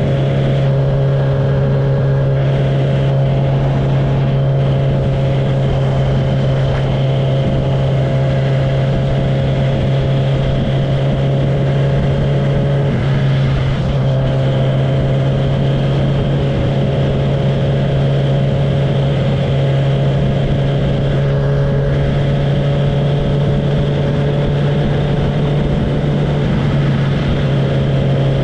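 Kawasaki ZX-10R inline-four engine running loud with no tailpipe, held at a steady speed. The engine note is even throughout, with a brief change in its higher notes about halfway through.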